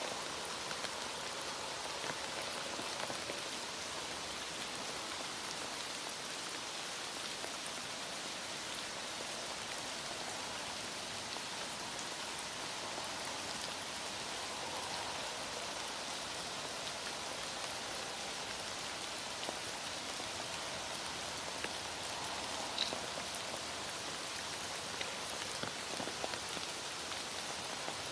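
Heavy rain falling steadily, an even hiss with scattered ticks of drops.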